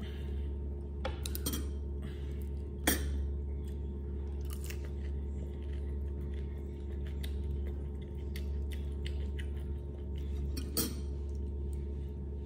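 A person chewing fried egg, with a few sharp clicks over it, the loudest about three seconds in. A steady low hum runs underneath.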